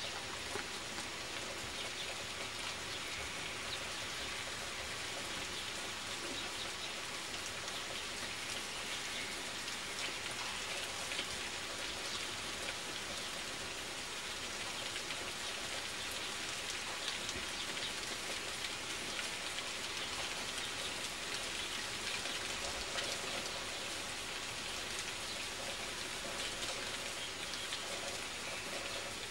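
Steady rain falling: an even hiss of drops.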